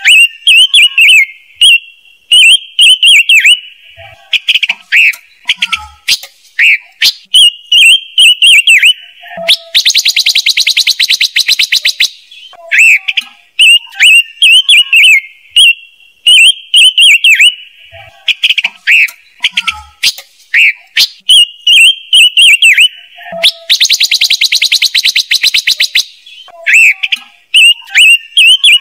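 Looped recording of the song of the ngũ sắc bird, used as a trap-speaker lure: quick runs of high, sliding chirps, broken twice by a fast buzzing rattle lasting about two seconds. The loud playback is clipped.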